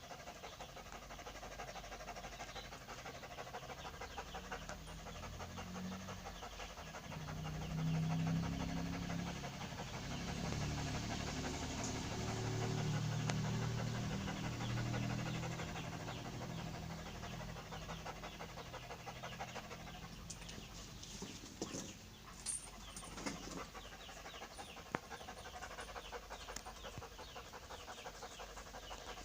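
A pet animal's rapid, rhythmic breathing sound close to the microphone, louder for several seconds in the middle.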